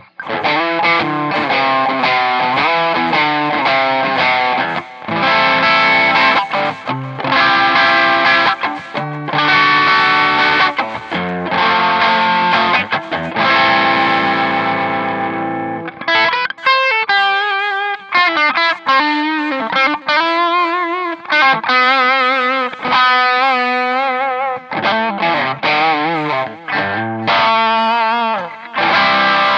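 Clifton Alnico Stratocaster electric guitar played through distortion: full chords in a steady strumming riff for the first half, then single-note lead lines with vibrato and bends from about halfway, and chords again near the end.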